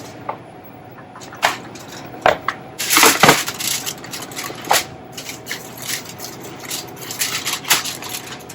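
Crinkling and crackling of something being handled and crushed, with sharp clicks. The loudest burst comes about three seconds in.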